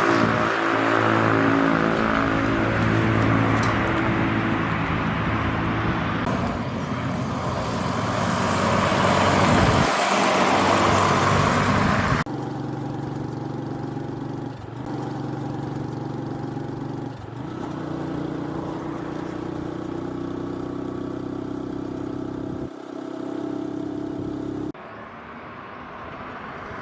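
Lexus RX300's V6 engine running, heard in a few short segments joined by abrupt cuts, with a swell of engine and road noise about ten seconds in.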